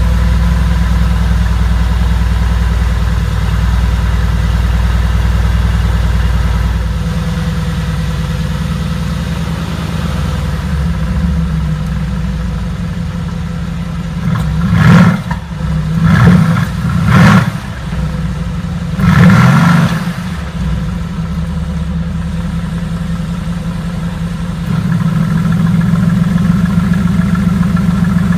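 Mercedes-AMG GT S's 4.0-litre twin-turbo V8 idling just after start-up, with the exhaust in normal mode; the idle drops about seven seconds in. Around the middle it is blipped four times in quick revs, then settles back to idle, a little louder near the end.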